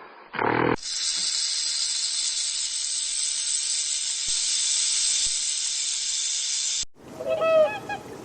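An animal hissing: one long, steady hiss lasting about six seconds that cuts off suddenly. In the last second or so, short honking bird calls begin.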